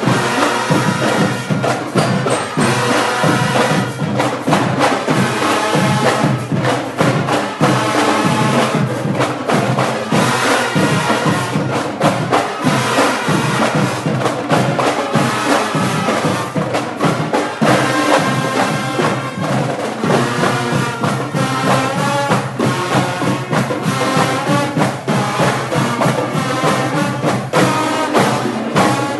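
A brass band with drums playing, with a steady beat.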